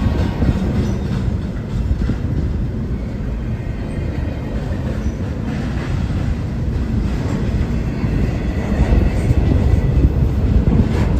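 A train rolling past: a steady rumble of wheels on rail with some clickety-clack, getting a little louder near the end.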